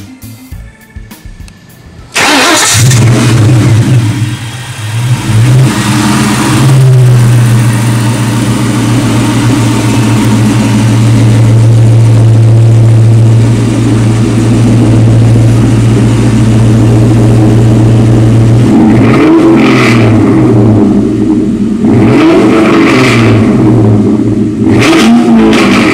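1998 Ford Mustang Cobra's 4.6-litre DOHC V8, through a Bassani dual exhaust, starting about two seconds in and settling into a steady idle. Near the end it is revved three times, each rev rising and falling back to idle.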